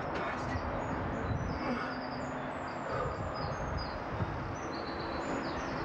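A small songbird singing: a quick, running series of short, high chirping notes that step up and down in pitch and stop near the end, over a steady low rumble.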